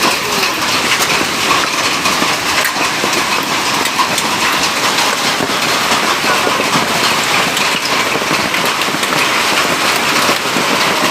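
Heavy rain falling steadily: a dense, even hiss made up of countless small drop impacts.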